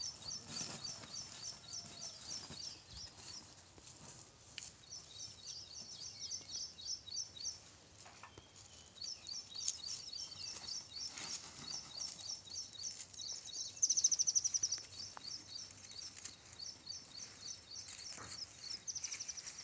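A bird chirping in quick runs of short, high notes, about five a second, broken by pauses, with a louder rapid trill about 14 seconds in and another near the end.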